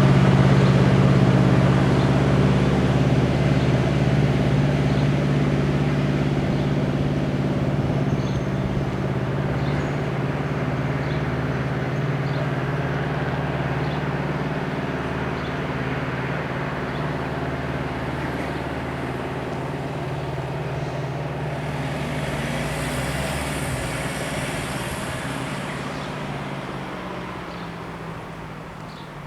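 Diesel engine of an Alstom Coradia LINT 41 railcar running with a steady low drone, fading steadily as the train moves away.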